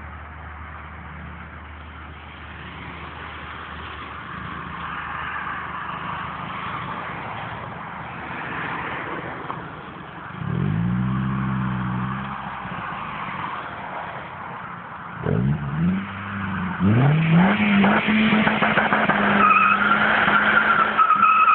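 Peugeot 206 GT's 2.0-litre 16-valve four-cylinder petrol engine during a standing burnout attempt: it runs low at first, is blipped up about halfway through, then revved hard in a couple of rising pulls and held at high revs. The front tyres squeal as they spin near the end.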